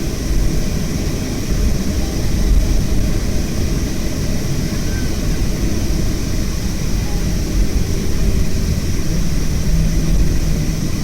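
Boeing 737-500 jet airliner's CFM56 engines running steadily: a deep rumble with a high hiss over it.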